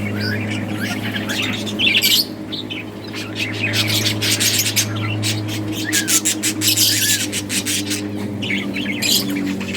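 Several budgerigars chirping and chattering in quick, scratchy bursts, over a steady low hum.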